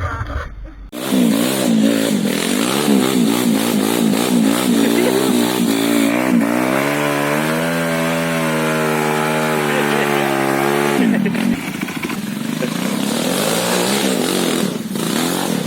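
Trail motorcycle engine revving hard under load, its pitch swinging rapidly up and down, then climbing and held high for a few seconds before dropping back.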